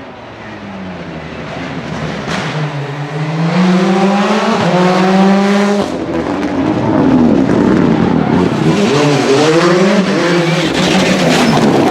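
Rally car engine accelerating hard, its pitch and loudness climbing as it comes closer. About six seconds in the sound changes abruptly, and from then on the engine revs up and down in quick swings as the driver changes gear and lifts off the throttle.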